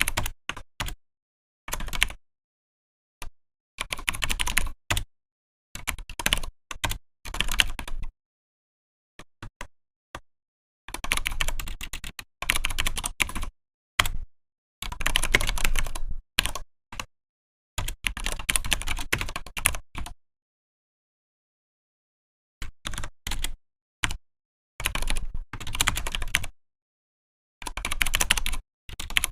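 Typing on a Vortex PKX-1040 Type F keyboard: quick runs of keystrokes with short pauses between them, and a longer pause about two-thirds of the way through.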